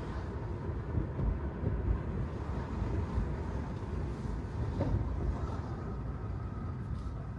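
Steady low rumble of tyre and road noise from a Tesla Model 3 driving on wet pavement.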